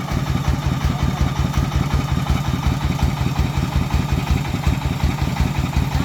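Agricultural truck's single-cylinder diesel engine running steadily with a rapid, even chug.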